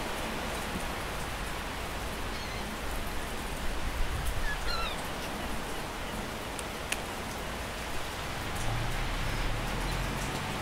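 Steady hiss of outdoor background noise, with a brief faint chirp about four and a half seconds in and a single sharp click near seven seconds.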